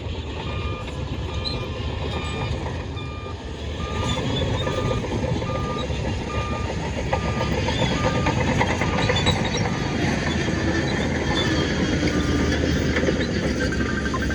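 Heavy diesel earthmoving machine running under load, with its reversing alarm beeping steadily about one and a half times a second. The engine grows louder about four seconds in and again around eight seconds.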